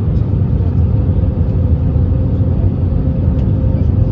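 Steady low rumble of an Airbus A321neo in flight, heard inside the passenger cabin: the CFM LEAP-1A engines and airflow over the fuselage, with a faint steady hum.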